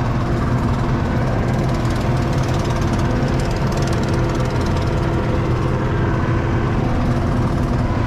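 ASV RT-40 compact track loader's diesel engine running at a steady speed, an even drone with no change in pitch or level.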